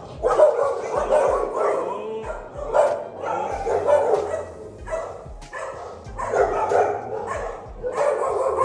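Dogs barking and yapping repeatedly in bursts, calls overlapping one another.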